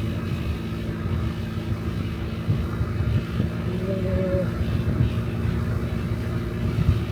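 Honda Dio Cesta 50cc scooter's small single-cylinder four-stroke engine running steadily while riding, with wind rumble on the microphone.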